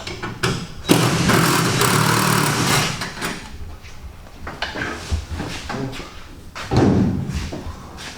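Workshop knocks and thuds, with a loud two-second burst of rushing noise about a second in and another heavy knock near the end.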